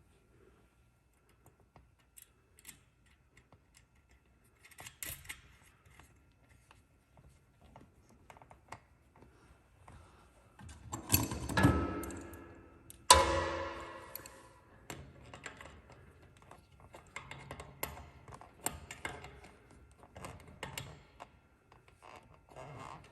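Hand work on a ceiling fan's wiring and housing: scattered small clicks and rustles, a louder scraping handling noise about 11 seconds in, then a sharp knock about 13 seconds in that rings on as it dies away.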